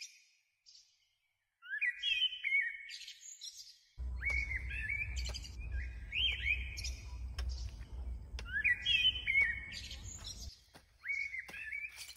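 A small songbird repeating a short chirping phrase of quick rising and falling notes every second or two. A low rumble starts suddenly about four seconds in and drops away near the end, where a few sharp knocks are heard.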